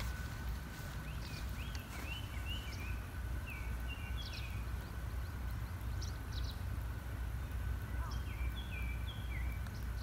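Small birds chirping in quick series of short notes, once from about two to five seconds in and again around eight to nine seconds, over a steady low rumble.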